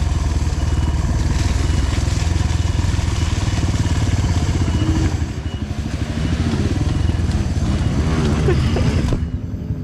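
Honda CRF150L trail bike's single-cylinder four-stroke engine running, its revs rising and falling over the second half. A hiss above the engine stops abruptly near the end.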